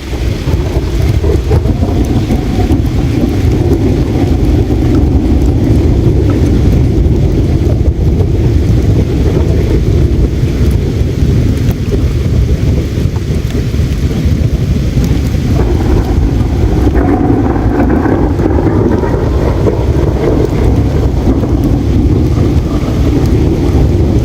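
Loud, steady low rumble of noise with no distinct crackles or tones on top.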